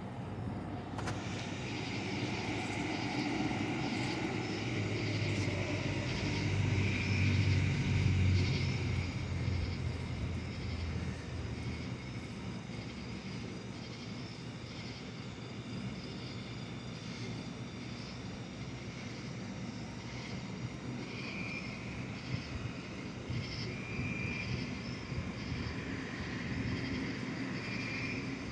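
Distant thunder rumbling low, swelling to a peak about a quarter of the way in and then slowly dying away, over steady outdoor background noise with faint high chirps now and then.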